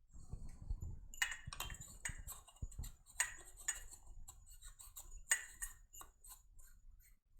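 Irregular small clicks and taps of glass and metal as light bulbs are fitted into E27 lamp holders, the sharpest click about five seconds in.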